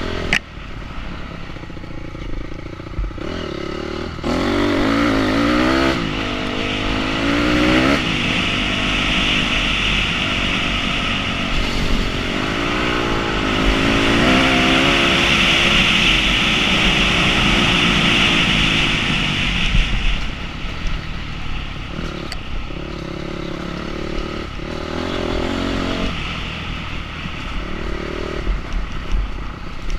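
Enduro motorcycle engine running hard off-road, revving up and dropping back several times as it accelerates and shifts, loudest through the middle.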